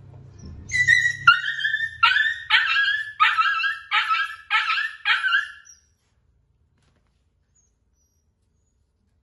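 A puppy yelping in a rapid run of about seven high-pitched cries, each dropping slightly in pitch, then stopping abruptly.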